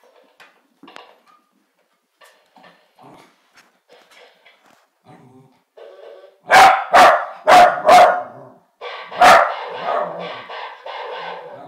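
Corgi barking: faint squeaks and chirps at first, then about five loud, sharp barks from about halfway through. Near the end comes a quicker run of quieter, short repeated yapping sounds.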